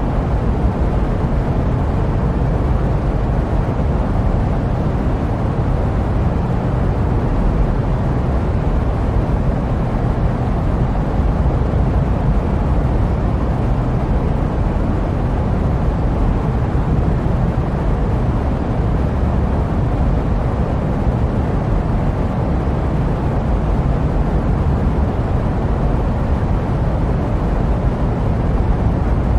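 Jet aircraft white noise: a steady, unchanging noise, heaviest in the low end, with no separate events.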